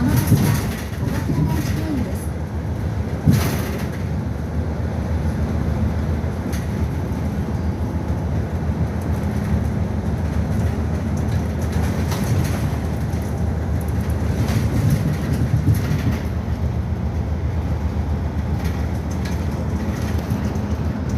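Interior running sound of a city route bus on the move: a steady low engine and road rumble, with a sharp knock about three seconds in, like the body or fittings jolting over a bump.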